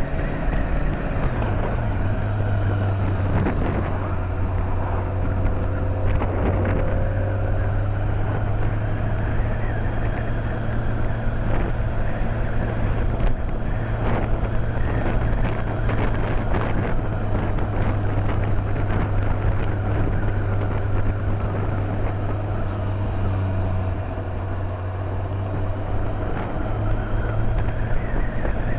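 BMW K1200S's inline-four engine running at a steady cruise, heard through a helmet microphone with wind rushing over the helmet. The engine note drops a step about a second in, then holds steady.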